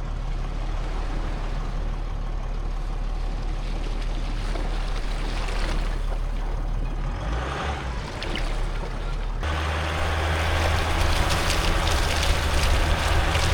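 Engine running steadily with a low drone. About nine seconds in it cuts abruptly to a louder engine drone with more hiss.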